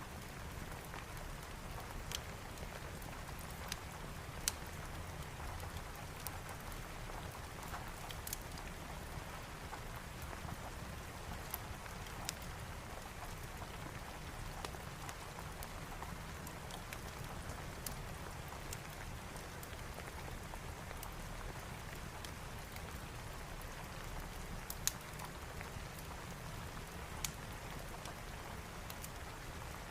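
Steady rain mixed with a wood fire in a fireplace, with scattered sharp pops and crackles a few seconds apart over the even hiss of the rain.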